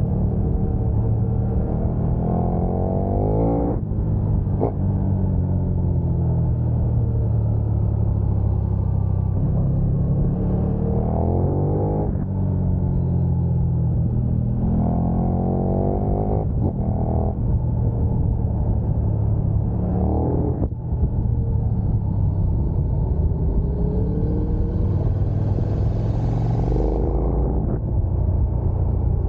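KTM 1290 Super Duke R's V-twin engine pulling hard on the road. Its pitch climbs for a few seconds at a time and drops sharply at each upshift, over a constant low rumble.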